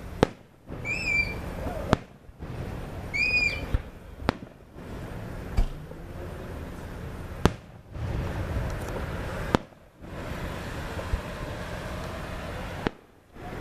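Aerial firework shells bursting: about seven sharp bangs, one to three seconds apart.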